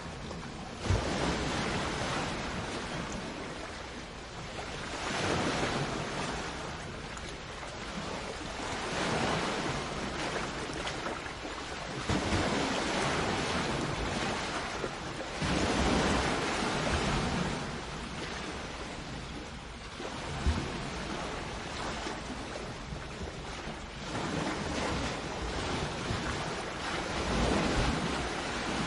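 Sea waves breaking and washing up on the shore, the surf swelling and falling back every few seconds.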